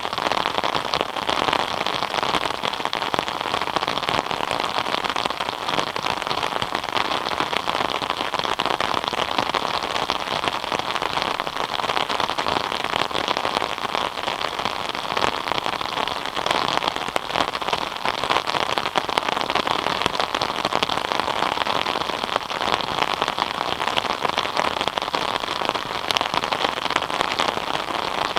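Steady rain falling, a dense patter of individual drops hitting a surface at an even, unchanging intensity.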